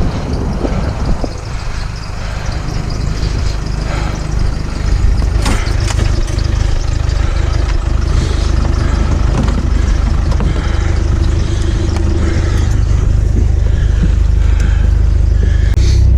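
A motor vehicle's engine running steadily, its low rumble growing louder, with a few sharp metallic clicks, one about five seconds in and one near the end.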